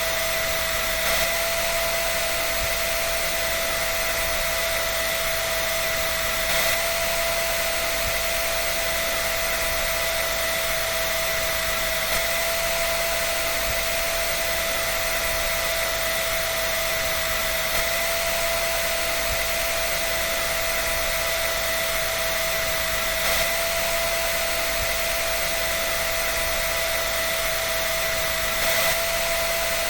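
A dryer running steadily: an even rush of air with a constant whine, and slight swells in level about every five and a half seconds.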